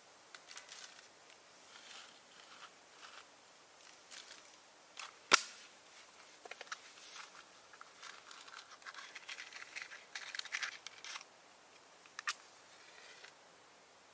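Scattered small clicks, scrapes and rustles of hands or tools at work, with one sharp loud click about five seconds in and a smaller one near the end.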